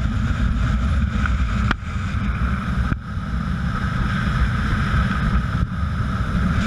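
Steady rumble of wind buffeting the microphone, with a steady mid-pitched hum running underneath; the rumble dips briefly twice in the first three seconds.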